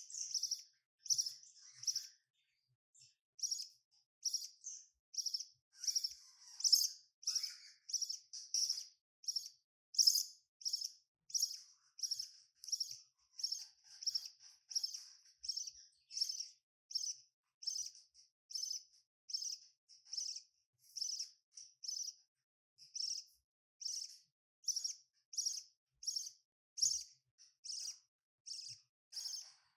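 Budgerigars chirping: a long, regular run of short, high chirps, about three every two seconds.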